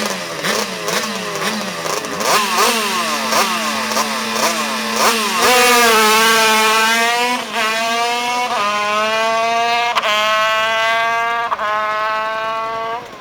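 Modified air-cooled 50cc Kreidler two-stroke racing engine revved in short, sharp blips about twice a second, then held at full throttle from about five seconds in as the bike accelerates, its pitch climbing and dropping sharply at four gear changes. The sound falls away suddenly near the end.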